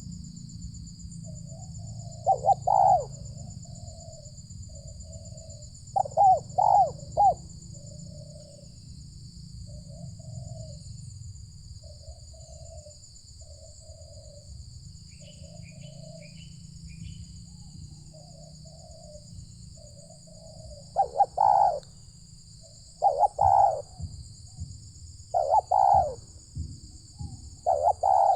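Spotted doves cooing: several loud coo phrases, with softer repeated coos in between. A steady high-pitched buzz runs underneath.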